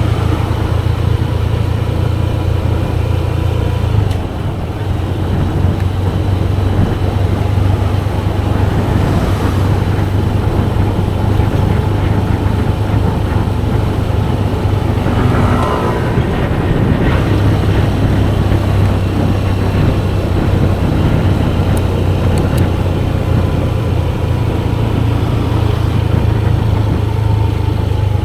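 Motorcycle underway on the road: a steady low engine drone with road and wind noise, and a brief rising-and-falling whine about halfway through.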